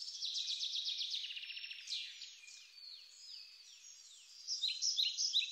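Small birds singing: a rapid trill of chirps in the first two seconds, then quieter falling whistled notes, and louder quick chirps near the end.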